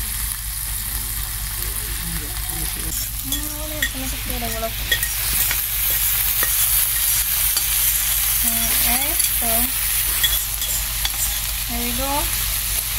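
Ackee and salt fish frying in hot oil in a pot: steady sizzling with the scraping and clicking of a spoon stirring.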